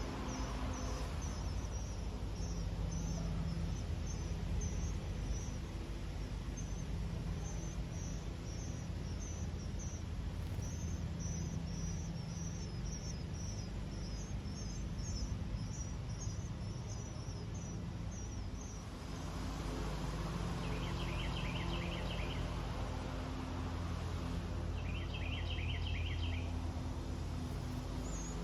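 Outdoor ambience of small animal calls: a run of high, rapid chirps, about two a second, that stops a little past halfway, then three short buzzy trills a few seconds apart, over a low steady hum.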